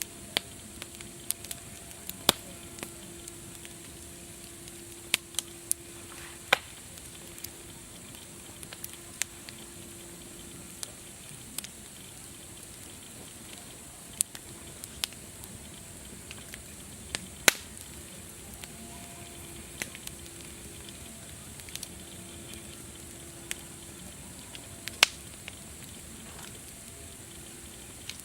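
Campfire crackling: irregular sharp pops and snaps, a few much louder than the rest, over a steady high hiss.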